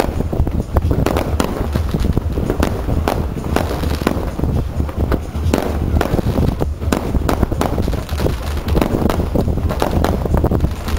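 Fireworks display going off in a dense, continuous barrage of bangs and crackles, several every second, over a steady low rumble.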